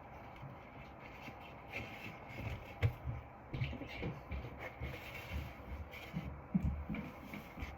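Bowls and utensils being handled during baking: light knocks and rubbing, with a sharper click about three seconds in, over a steady background hiss.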